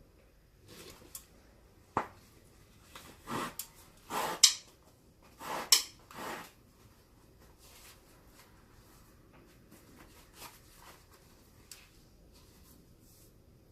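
Hands working on a leather baseball glove: a sharp click, then several short rubbing strokes, followed by a few faint taps.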